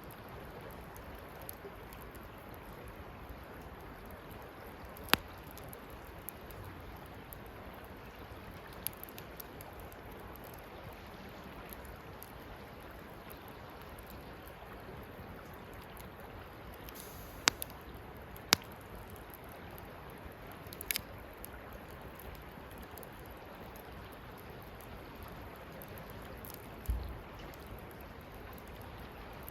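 Wood campfire burning with a steady soft hiss and occasional sharp crackling pops, a few seconds apart, the loudest about five seconds in and two more close together just past the middle; a duller thud near the end.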